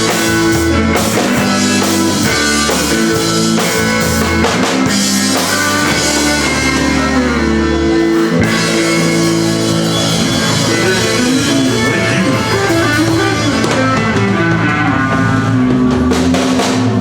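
Live country-rock band playing an instrumental passage with a drum kit and guitar, without singing.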